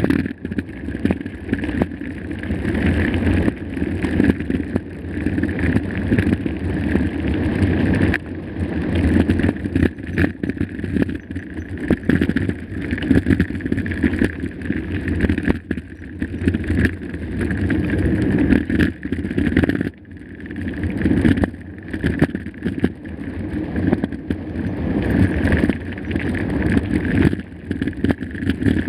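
Mountain bike ridden over a rough dirt trail: a steady rumble from the tyres, with frequent rattling knocks from the bike as it goes over bumps.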